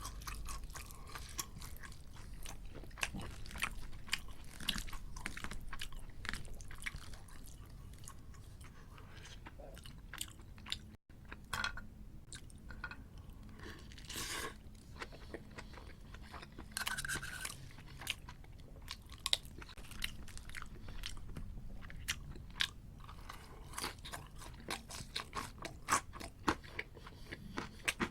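Close-miked chewing and crunching of crispy battered fried pork (sweet and sour pork), a dense run of crackly bites and crunches, with the sound cutting out for a moment about eleven seconds in.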